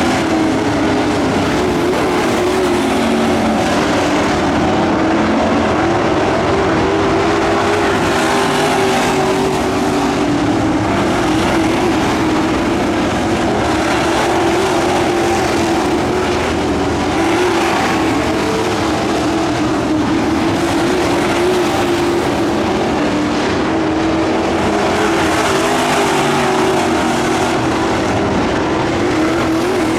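Pack of dirt-track race trucks running laps at full throttle, several engines at slightly different pitches blending into one steady drone, swelling a little as trucks pass.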